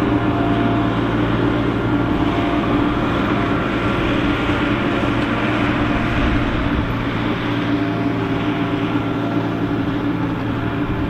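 A heavy machine's diesel engine running steadily, a continuous drone with no change in speed.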